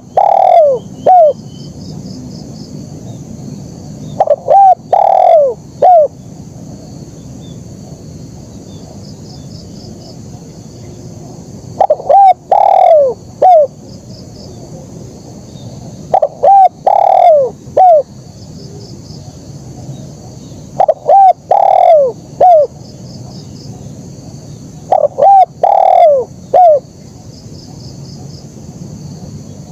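Spotted dove cooing its 'kuk 1' song: a three-note coo phrase (a short note, a longer falling note, then one short closing 'kuk'), repeated six times with a longer pause near the middle. Faint insect chirring and a steady hiss sit behind it.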